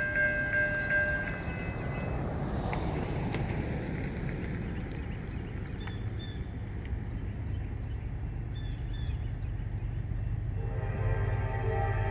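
Approaching Norfolk Southern freight train: a low, steady rumble of the locomotives, with a bell ringing in quick, even strokes that stops about a second in. Near the end the lead locomotive's horn chord begins to sound and the rumble grows louder.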